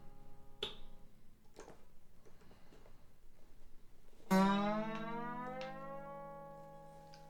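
Freshly fitted steel strings on a Seagull S6 acoustic guitar. A few light knocks of handling come first. About four seconds in, the open strings are struck and ring out together, their pitch sliding up for about a second before holding steady and slowly dying away.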